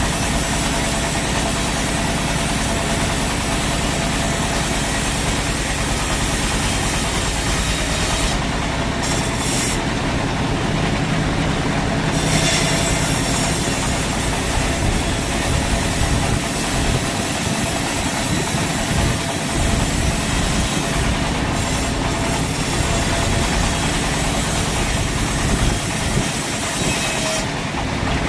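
Sawmill machinery running steadily: a continuous mechanical whir over a low motor hum.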